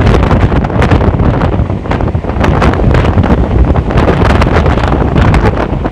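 Wind buffeting the microphone over the loud rumble and clatter of a Mumbai suburban electric local train running at speed.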